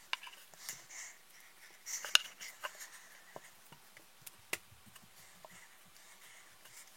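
Scattered clicks and light taps of small parts being handled while an RC car's shock absorbers are taken apart and cleaned, with the loudest click about two seconds in.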